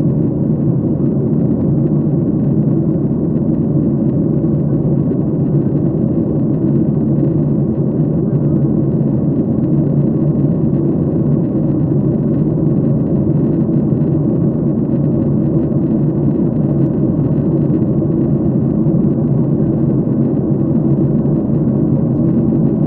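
Airliner cabin noise: the steady roar of the engines and air rushing past the fuselage, heard from a window seat inside the cabin.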